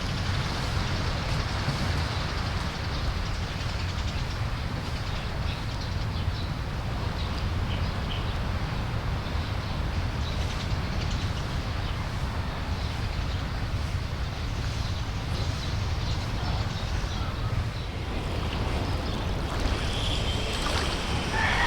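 Steady rush of surf and wind, with wind rumbling on the microphone. A few faint chirps come in near the end.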